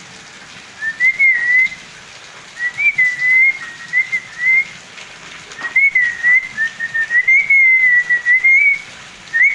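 Parrot whistling a tune in several short phrases of clear, pure notes, with small slides up and down in pitch.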